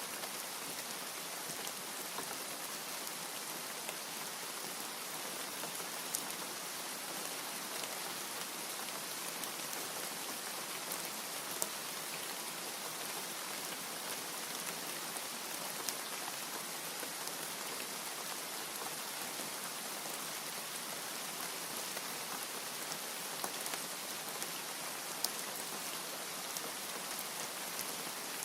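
Steady rain falling: a dense, even hiss with scattered sharper ticks of single drops.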